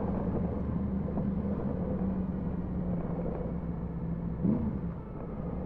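Yamaha MT-10 SP's crossplane inline-four engine running at low, steady revs on the move, its pitch easing slightly lower, with a brief rise in revs about four and a half seconds in.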